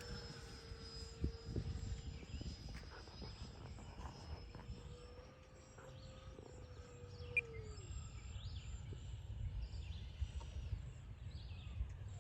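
Electric ducted-fan whine of an E-flite F-15 Eagle RC jet. The whine is faint and steady, then drops in pitch and cuts out about eight seconds in as the throttle comes back for landing. A low wind rumble runs underneath.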